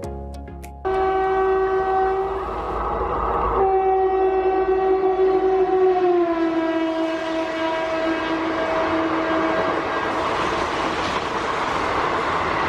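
WAP-4 electric locomotive's horn sounding two long blasts, the second dropping in pitch about halfway through. After the horn stops, the rushing rumble of the passing train builds.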